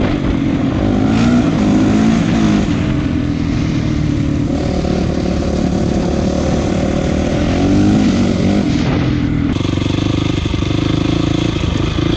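Honda CRF450 dirt bike's single-cylinder four-stroke engine running while being ridden, its note rising and falling as the throttle is worked. The note changes abruptly a little over nine seconds in.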